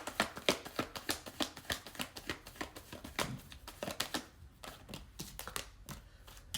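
A deck of tarot cards being shuffled by hand: a quick run of card slaps, about four a second, that thins out and grows fainter in the last couple of seconds, ending with one sharper snap.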